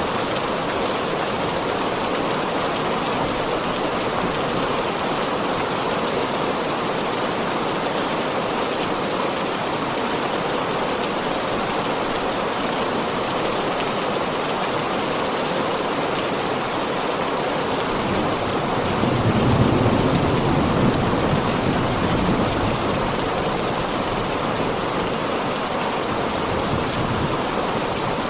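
Heavy rain falling steadily. About two-thirds of the way through, a low rumble of thunder swells and fades over a few seconds.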